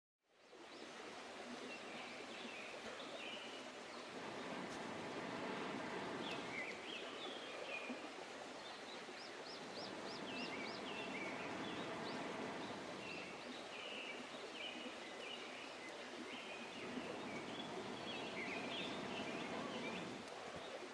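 Outdoor background noise with small birds chirping again and again, and a quick run of about six high notes about nine seconds in.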